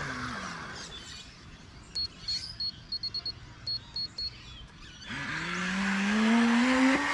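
Electric RC jet boat's motor winding down, its whine falling in pitch, then a string of short high electronic beeps, then the motor spooling up again with a rising whine about five seconds in.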